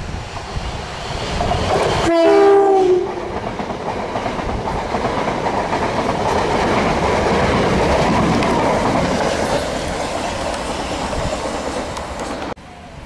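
Southern Class 377 electric multiple unit sounding its horn briefly about two seconds in, then passing close at speed with a steady rush of wheels on rail. The sound cuts off sharply near the end.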